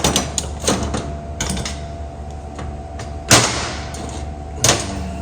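Metal window-crank hardware and hand tools being handled on a workbench: a few sharp clanks and knocks, the loudest about three seconds in, over a steady background hum.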